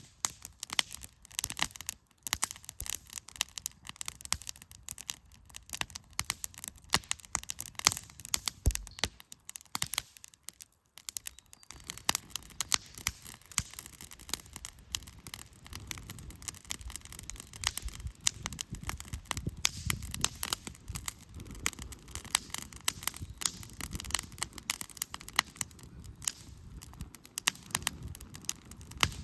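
Newly lit wood fire in a fire-pit stand crackling and popping with dense, sharp snaps of the burning firewood, and a low rushing of the flames joining in underneath from about twelve seconds in.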